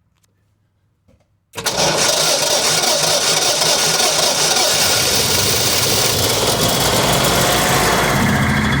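Generac RV generator's gasoline engine being cranked by its electric starter on a cold start without the choke. The sound starts suddenly about a second and a half in, runs loud and rough for several seconds, and its tone shifts lower near the end.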